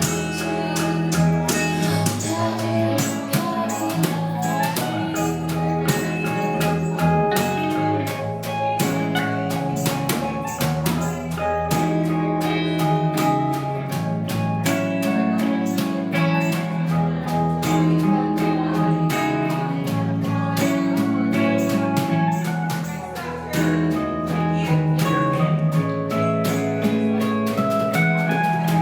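Live jazz band playing a slow, dreamy song, with plucked guitar over bass and drums.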